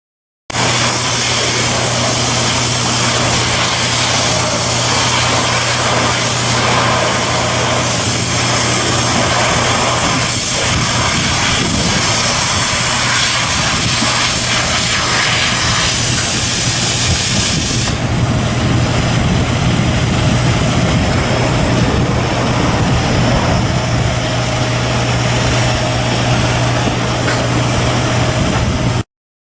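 Heavy engine-type machinery running steadily, with a constant low hum under a broad hiss. The hiss changes about two-thirds of the way through.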